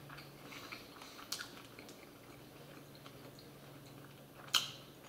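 Faint close-up chewing of a mouthful of pulled-pork cheeseburger, with small wet mouth clicks and a sharper click about four and a half seconds in.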